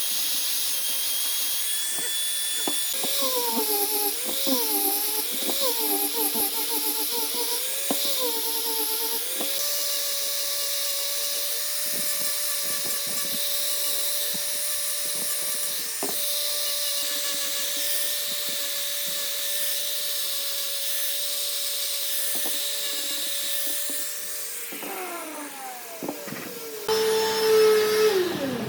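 Wood lathe motor running with a steady hum and hiss; its pitch wavers up and down in the first seconds as the speed changes, holds steady, then falls near the end as the lathe winds down.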